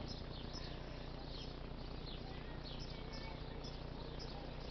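Small birds chirping, many short high calls sliding downward in quick succession, over a steady low background hum.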